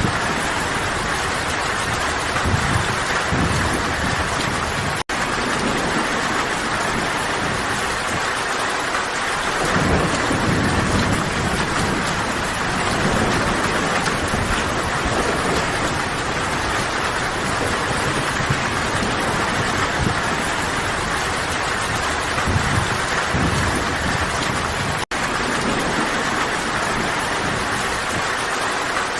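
Steady heavy rain falling, with low rumbles of distant thunder swelling and fading several times. The sound cuts out for an instant twice, about five seconds in and near the end.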